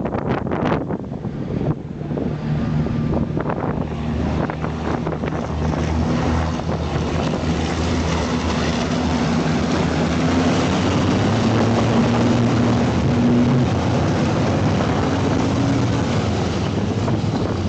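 Racing trucks' turbo-diesel engines running hard, the sound building over the first several seconds and then holding steady and loud, with some wind noise on the microphone.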